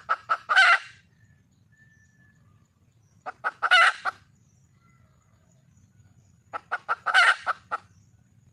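Red junglefowl hen calling: three bouts of quick clucks, each building to a louder, longer squawk. The bouts come near the start, in the middle and near the end. It is a hen calling for a mate.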